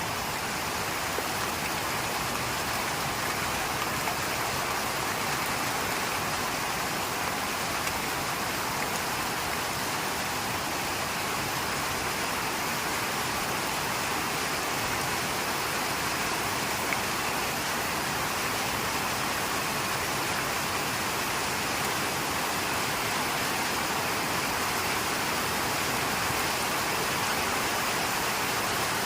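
Rain falling steadily, an even unbroken noise that neither builds nor lets up.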